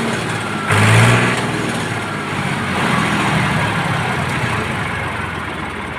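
Tractor engine running steadily at idle, briefly louder about a second in.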